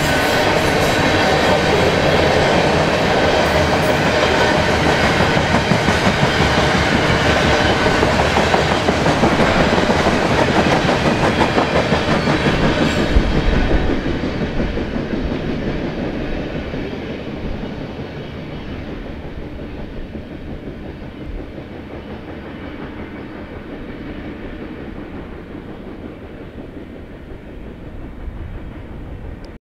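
Loaded covered hopper cars of a BNSF grain train rolling past, steel wheels clattering over the rails. About halfway through the end of the train goes by and the sound fades steadily as the train moves away.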